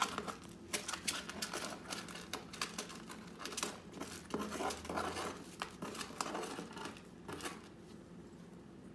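A sun conure shredding material in its box with its beak: a busy, irregular run of crinkling, snipping and tearing sounds that thins out near the end.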